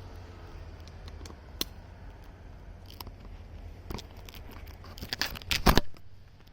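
Scattered clicks and rustling over a low steady rumble, with a burst of loud crackling and knocking about five seconds in, like something handling or rubbing against the microphone.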